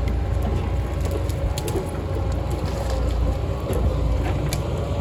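Heavy diesel machine engine running steadily under load, with a few sharp cracks of wood and branches breaking as timber is pulled out.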